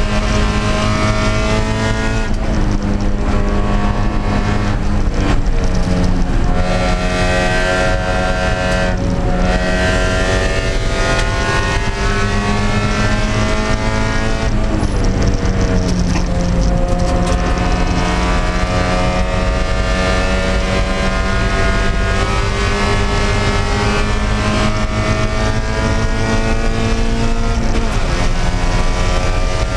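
Spec Miata race car's inline-four engine at full throttle, heard from inside the stripped cabin. The revs climb steadily and drop back sharply a few times, about 2, 5, 15 and 28 seconds in.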